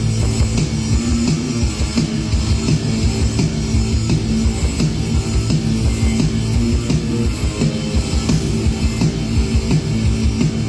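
Rock band playing loud amplified music through a stage PA during a sound check, with a steady driving beat.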